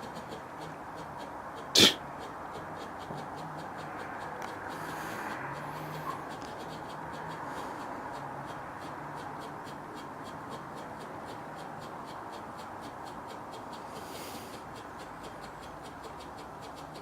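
A firework gives a single sharp bang about two seconds in, over a steady faint hiss.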